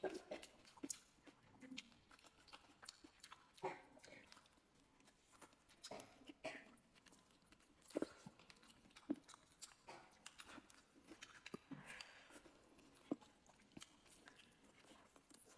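Faint close-up eating sounds: a person chewing and smacking their lips, with scattered sharp mouth clicks. About eight seconds in, a strand of greens is sucked into the mouth with a short slurp.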